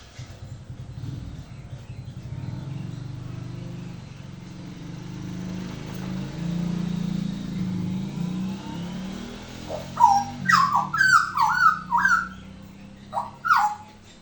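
Hooded butcherbird singing: a run of loud, clear whistled notes, each sliding in pitch, starting about ten seconds in. Before the song there is a low, steady hum that rises and falls a little.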